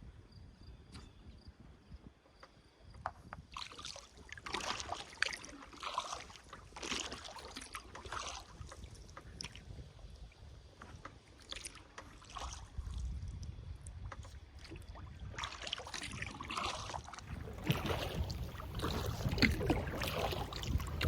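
Kayak paddle dipping into the river, splashing and dripping water in two spells of irregular strokes, with wind rumbling on the microphone near the end.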